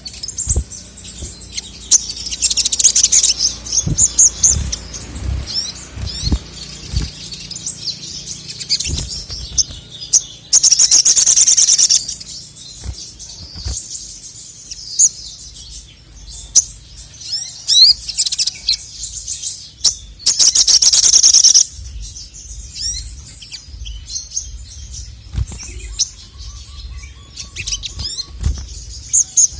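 Male crimson sunbird (sogon) singing: quick, high, thin chirps and squeaky notes, broken by two long, loud, rapid trills, about ten and twenty seconds in. Scattered low thumps are heard too.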